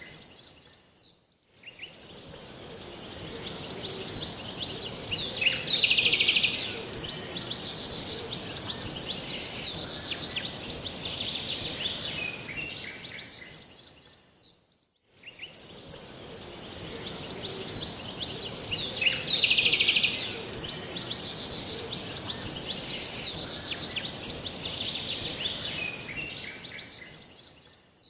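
Birds chirping and singing over a steady high hiss. The same stretch of song repeats about every thirteen seconds, fading out and back in between repeats, with the loudest call about six seconds in and again near nineteen seconds.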